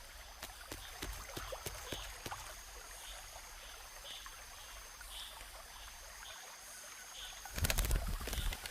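Faint forest ambience: a thin steady high tone and soft high chirps about twice a second over a quiet hiss, with scattered small clicks and drips. A brief louder rustle comes about a second before the end.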